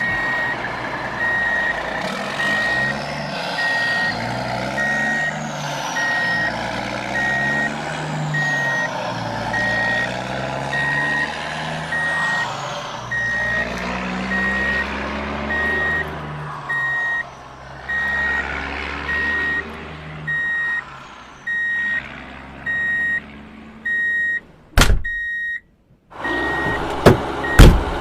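Truck reversing alarm beeping steadily about once a second over a low, wavering engine sound. About 25 seconds in there is a sharp click and a short gap, with more clicks near the end.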